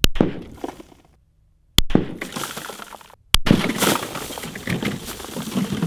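Three rifle shots about a second and a half apart, each a sharp crack followed by a noisy tail; the last tail runs on for about two and a half seconds.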